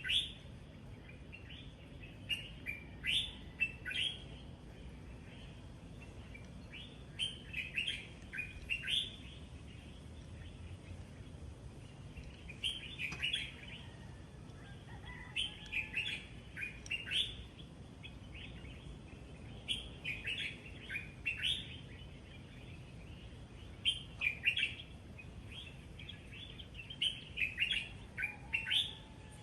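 Birds chirping in short bursts of quick, high chirps every few seconds over a steady low background hiss.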